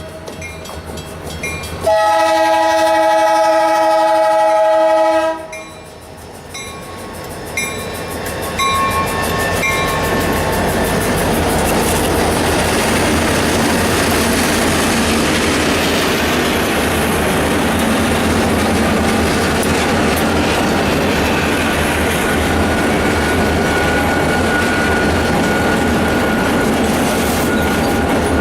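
Freight locomotive air horn sounds one long multi-note blast about two seconds in. The train then comes up and passes: diesel locomotive rumble and a steady rattle of wheels and cars over the rails.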